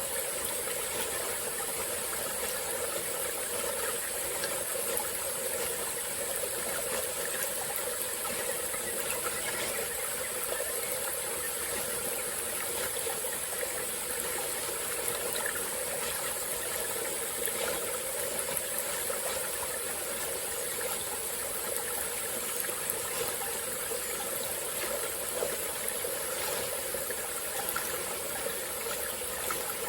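Small tropical forest stream flowing steadily, a continuous rush of running water.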